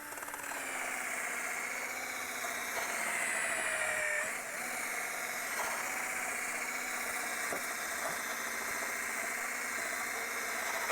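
Handheld power tool spinning a paint-removal stripping wheel against a rusty steel tractor rim, used as a rust remover. It runs steadily with a whine whose pitch sags under load and picks back up about four seconds in.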